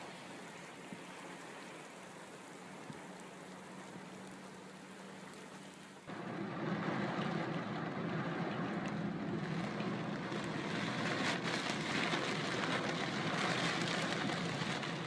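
Heavy rain pouring, with a low steady hum beneath it at first; about six seconds in it suddenly becomes much louder and fuller.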